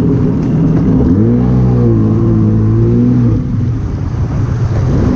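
Jet ski engine running; about a second in it revs up to a steady, higher pitch, holds there for about two seconds, then eases off again, over a constant rush of wind and water.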